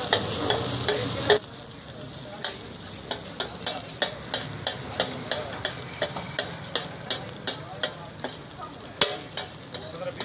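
Beef keema frying in oil on a flat tawa griddle, sizzling, while a metal spatula taps and scrapes it on the griddle at about three strikes a second. The sizzle is louder for the first second and a half, then drops.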